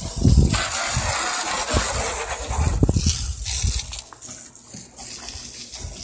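Water spraying onto a dirt bike during a wash: a strong hiss from about half a second in to about three seconds, then a softer hiss with a few scattered knocks.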